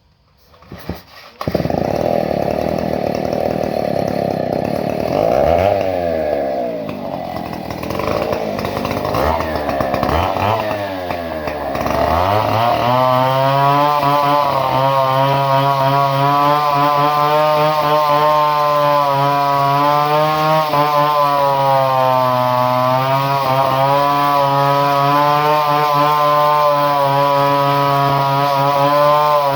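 Two-stroke chainsaw engine starting about a second in and revving up and down unevenly, then settling into a steady run from about twelve seconds on.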